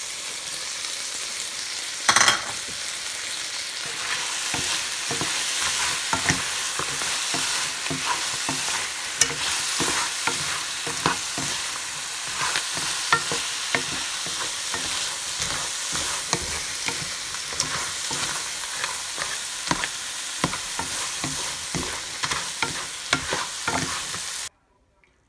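Crawdads stir-frying in hot oil in a nonstick pan: a steady sizzle with many quick clicks and scrapes as a slotted wooden spatula tosses the shells. There is a louder flare about two seconds in, just after chopped scallions go into the pan, and the sound cuts off abruptly near the end.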